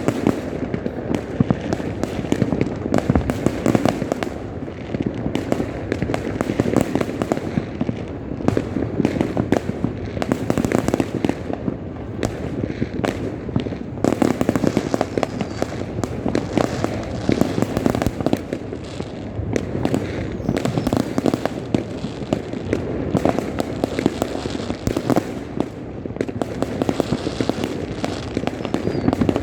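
Many fireworks and firecrackers going off at once, a dense, continuous crackle of bangs and pops without a break.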